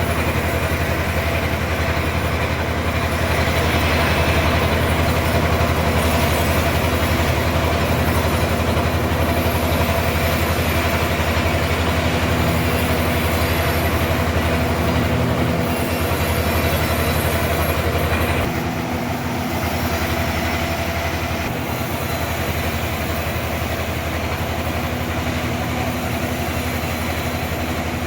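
Sawmill machinery running steadily with a low, engine-like hum. About eighteen seconds in, the sound drops and thins abruptly, as if the load changes.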